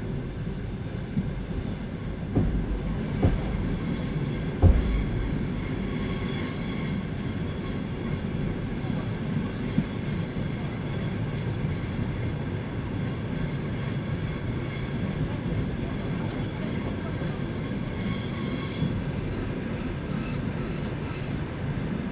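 Passenger railway carriage rolling along the track, heard from inside: a steady low rumble with a few sharp wheel knocks over rail joints in the first five seconds, then smoother running with faint clicks.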